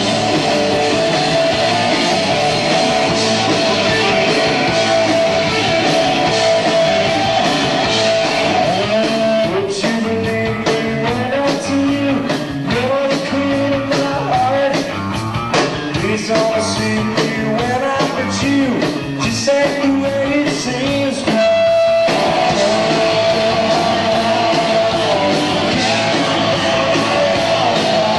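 Live punk rock band playing, heard through an audience recording: distorted electric guitar, bass and drums, with a long held guitar note and bending, sliding guitar lines through the middle stretch.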